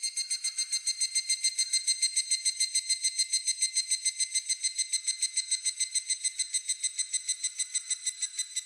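Higurashi (evening cicada) calling: a rapid run of ringing, evenly pulsed notes, about nine a second. It holds steady, then eases off near the end.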